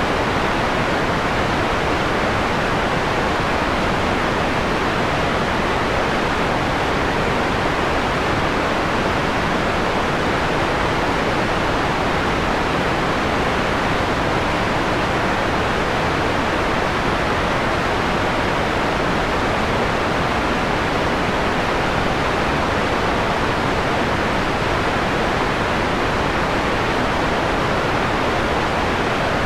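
Steady synthetic white noise, filtered to a softer, mellower tone: an even hiss with little in the highest treble, unchanging throughout.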